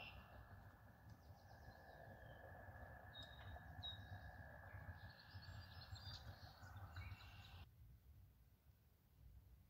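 Faint birdsong, short high chirps and calls, over a low rumble. The birds stop abruptly about three-quarters of the way through, leaving near silence.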